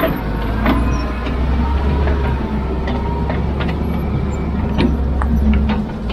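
A heavy diesel engine on construction machinery running steadily, with scattered sharp knocks and clanks over the rumble.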